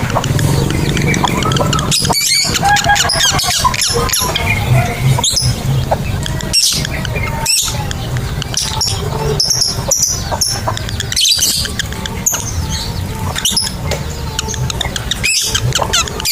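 Lovebirds chirping and screeching, with rapid high-pitched calls repeated throughout, over a steady low hum.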